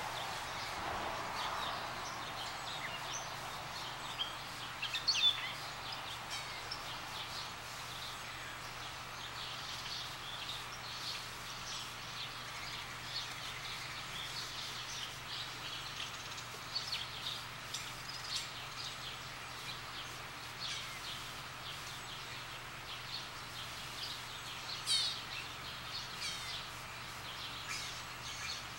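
Birds chirping and calling, many short high chirps throughout. A louder call comes about five seconds in and another about twenty-five seconds in.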